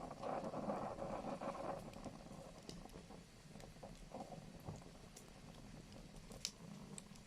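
Wood fire in a fireplace crackling, with a sputtering hiss in the first two seconds and scattered pops, the sharpest about six and a half seconds in.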